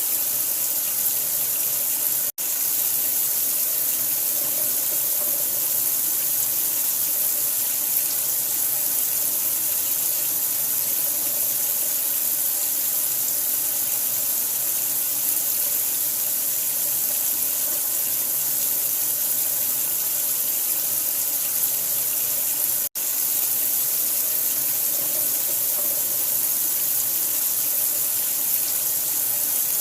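Steady, hissing rush of running water, like a tap running full, played as a sleep sound. It cuts out for an instant twice, about two seconds in and again about twenty-three seconds in.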